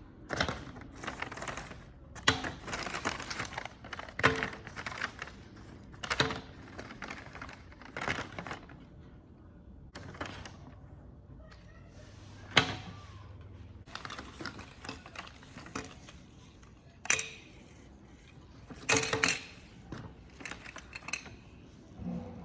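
Small plastic toys and items clicking and clattering as they are dropped into plastic treat bags, with the bags crinkling between the knocks. The clicks come irregularly, a sharp one every second or two.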